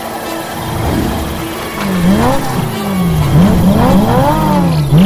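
Cartoon car engine sound effect revving, its pitch repeatedly rising quickly and falling away, starting about two seconds in.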